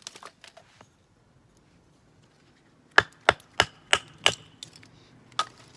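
Firewood being split with a nata hatchet: five quick, sharp strikes into the wood about three a second, starting about three seconds in, then a few lighter knocks.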